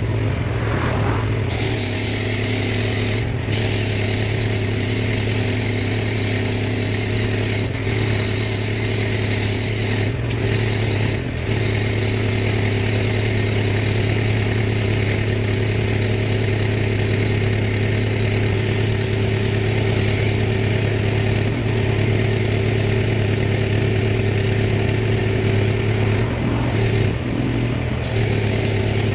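Small engine of a pressure washer running steadily, with the hiss of the water jet spraying from about a second and a half in.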